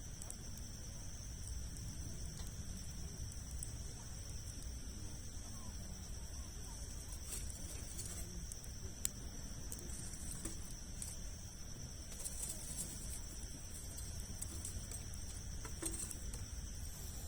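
Campfire of large logs burning, with scattered sharp crackles and pops, one louder pop about nine seconds in, over a low rumble. A steady high insect drone, like crickets, runs underneath.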